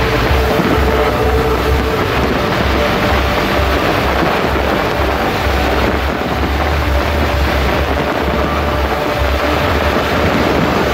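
Dense fireworks barrage: a continuous heavy rumble of booms running together.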